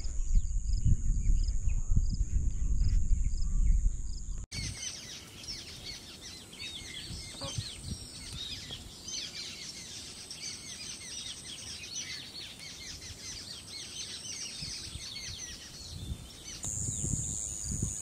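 Wind rumbling on the microphone with a few bird chirps, then, after a sudden cut about four and a half seconds in, a dense chorus of many birds chirping and calling over one another without a break.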